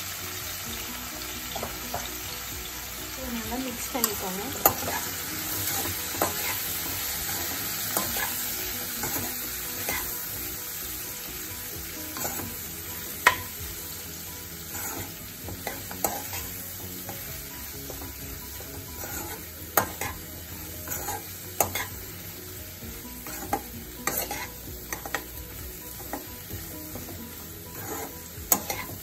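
Sliced bitter gourd sizzling in hot oil in a non-stick kadai. A steel spoon stirs and turns the slices, scraping and clicking against the pan at irregular moments.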